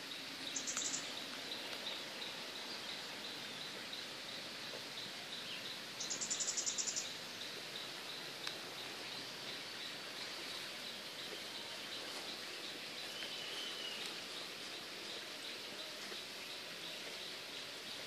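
Birds singing and calling in a garden, over a steady high chirping. Two short, rapid, very high trills sound, one about a second in and a louder one about six seconds in, and a brief gliding call comes near the end.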